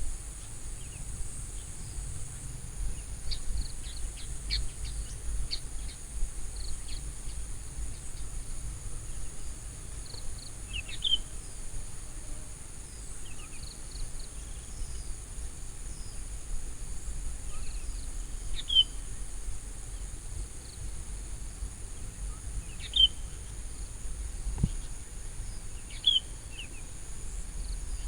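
Outdoor countryside ambience: a steady high-pitched drone of crickets or other insects, with short bird chirps scattered through it and one clearer chirp repeated about every four seconds, over a constant low rumble.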